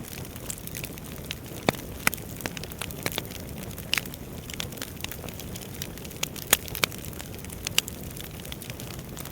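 Wood fire burning in a fireplace, with a steady low rumble and irregular sharp crackles and pops from the burning logs; one pop about two thirds of the way through is the loudest.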